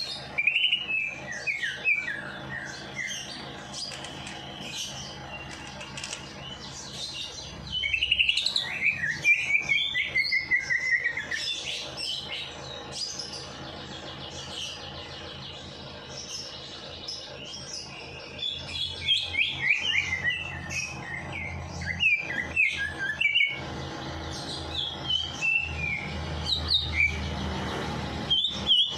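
Caged songbird singing in bursts of rapid, high chirping phrases separated by short pauses, over a faint steady hum.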